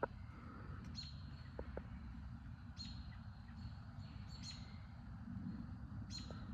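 A bird chirping, a short high call falling in pitch, repeated five or so times about every second or two, over a faint steady low rumble.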